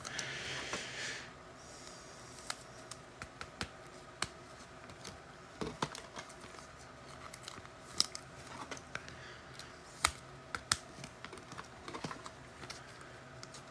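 Quiet handling of trading cards and packs at a table: scattered light clicks and taps, with a soft rustle in the first second.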